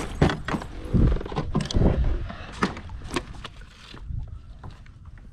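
Irregular knocks, clicks and low thumps of handling and gear against a kayak while a hooked bass is fought. The heaviest thumps come about one and two seconds in, and the clatter thins out after about four seconds.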